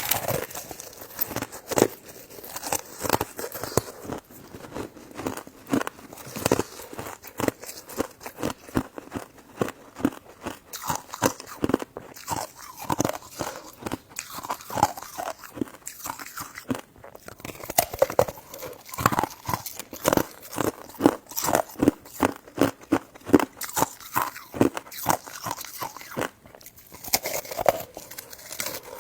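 A person eating up close: continuous biting and chewing with many rapid, irregular clicks and crunches.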